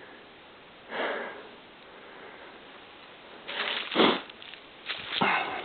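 A person sniffing several times: short breathy sniffs about a second in, twice around four seconds in, and once more near the end.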